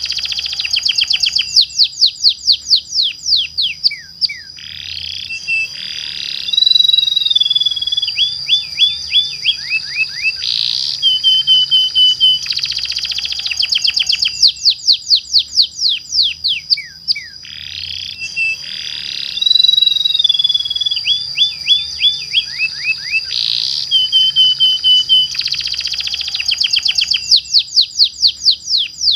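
Domestic canary singing long rolling trills: rapid runs of descending whistled notes alternating with buzzy rolls, over a steady high whistle. The same song sequence repeats about every 13 seconds, as a looped lure recording.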